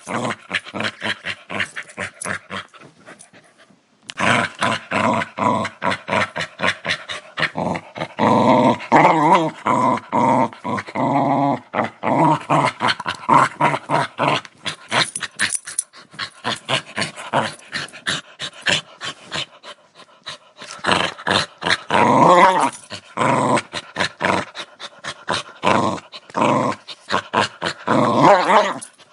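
Dog growling aggressively: a rapid, pulsing growl with a short break about three seconds in, swelling into louder snarling stretches around the middle and again near the end.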